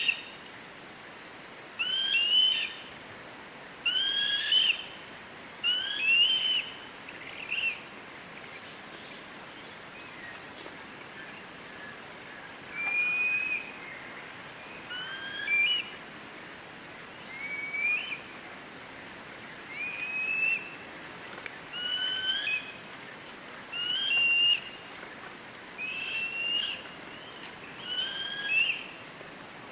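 A bird repeating a short whistled call about every two seconds, each call a quick rising or slurred note, with a pause of a few seconds before the middle.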